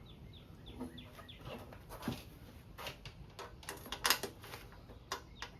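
A bird chirping over and over in short falling notes, about three a second, for the first couple of seconds and again near the end. Scattered sharp clinks of bolts and tools on metal, the loudest about four seconds in.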